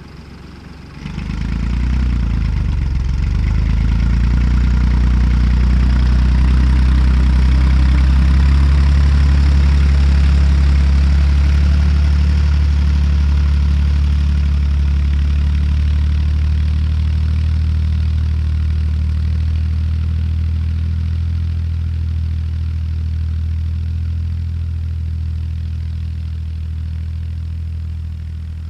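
Tractor diesel engine running steadily, coming in loud about a second in and easing off slightly near the end.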